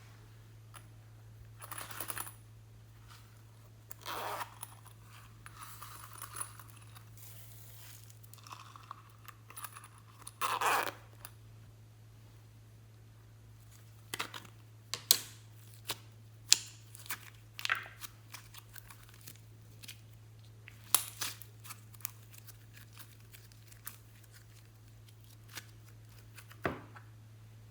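Hands working slime and the items being mixed into it: a few short bursts of crinkling, tearing noise, then a run of sharp clicks and pops, over a steady low hum.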